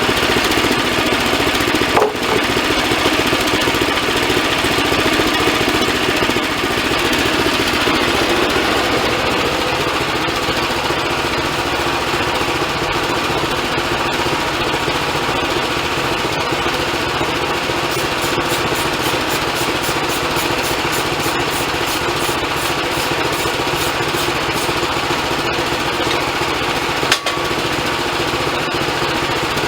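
Band sawmill's engine running steadily, with two sharp knocks, one about two seconds in and one near the end, and a brief run of fast, faint ticking in the second half.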